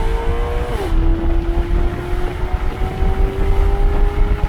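Maserati GranTurismo MC's V8 through a long high-merge F1-style exhaust pipe, accelerating hard: the revs climb, drop sharply at an upshift about a second in, then climb steadily again in the next gear.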